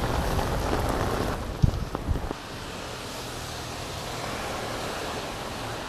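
Steady hiss of rain on a wet street, louder for the first second and a half, then quieter. A couple of light knocks come about two seconds in.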